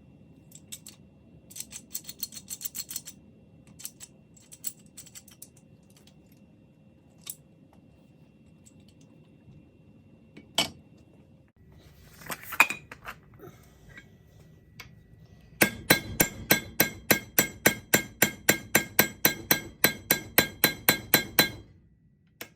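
Light scattered clicks and a single sharp knock, then a fast, even run of about two dozen ringing metal-on-metal taps, roughly four a second, lasting about six seconds.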